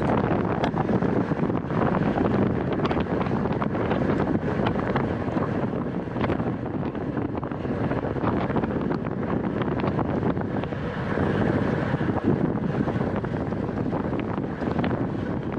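Wind rushing over the microphone of a camera on a racing bicycle at speed, with many small clicks and rattles scattered through it.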